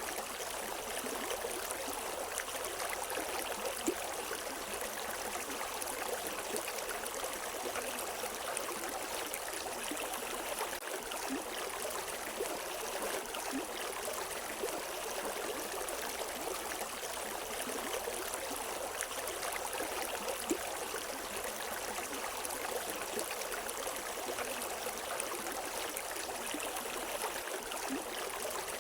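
River water running steadily over rocks: an even rushing and splashing, with no birds.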